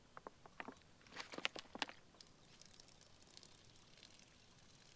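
Faint drips and taps as water trickling down a rock face is caught in a water pouch, with a cluster of small clicks in the first two seconds, then only a faint hiss.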